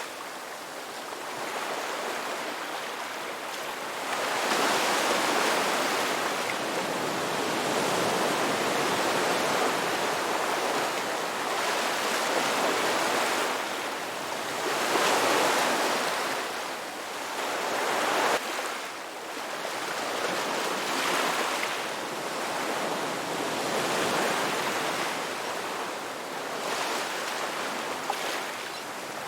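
Ocean waves breaking and washing up on a shore, the surf swelling and fading every few seconds, with one sharper break about 18 seconds in.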